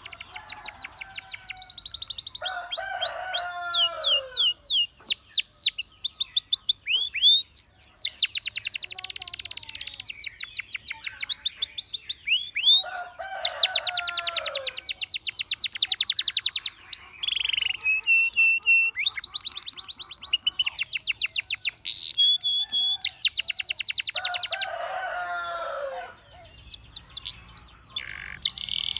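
Domestic canary singing in fast trills and rolls of rapidly repeated high notes, phrase after phrase. Three times a lower, falling call breaks in, each lasting about a second and a half.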